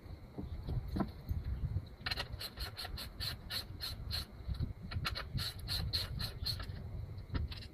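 Two runs of rapid clicks, about five a second, the first about two seconds in and the second about five seconds in, over a low rumble.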